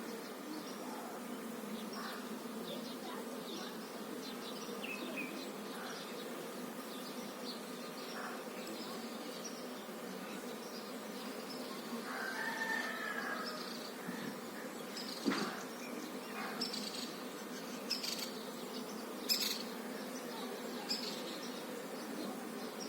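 Honeybees humming steadily, a continuous low drone from a busy hive, with a few short clicks or taps in the second half.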